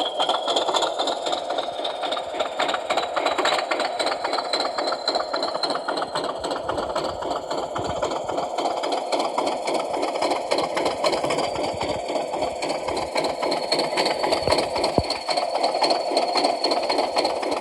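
DCC sound decoder in an OO-scale model of an NIR Hunslet diesel locomotive, playing its recorded diesel engine running at idle after a cold start, heard through the model's small speaker. The engine beats steadily, with a high whine that rises slightly in the first couple of seconds.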